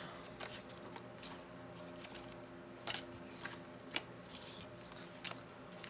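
Paper and craft supplies being handled while searching through them: a few light clicks and taps, the sharpest about five seconds in, over a steady low electrical hum.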